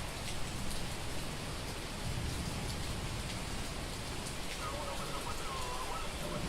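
Heavy rain falling on a street: a steady hiss of rain with drops spattering and a low rumble underneath. A faint wavering pitched call comes in over the rain a little past halfway.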